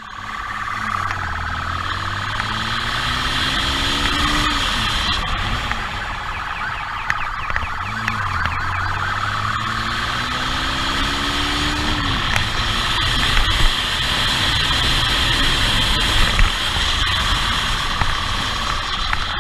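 Police car siren sounding over loud engine and road noise during a pursuit. Several times the engine pitch climbs slowly and then drops, as in accelerating through the gears.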